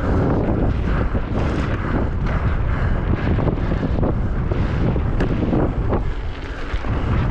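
Wind buffeting a mountain bike rider's microphone at speed, over the steady clatter and knocks of the bike running over rough ground during a downhill race run.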